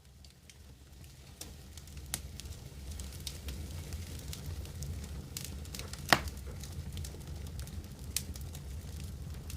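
Wood fire crackling in a fireplace, with scattered pops over a low steady rumble, fading in over the first few seconds. One much louder pop comes about six seconds in.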